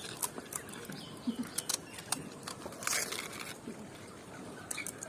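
Crunching of crisp fuchka (pani puri) shells as people eat them: a run of short, sharp, irregular clicks, with a longer noisy stretch about three seconds in.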